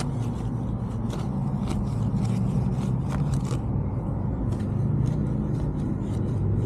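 Stiff brush scrubbing a car wheel coated in foaming wheel cleaner, in quick short scraping strokes, over a steady low hum.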